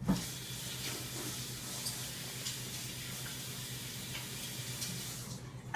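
Kitchen tap running steadily into a sink while spoons are rinsed, with a few faint clinks; the water stops just before the end.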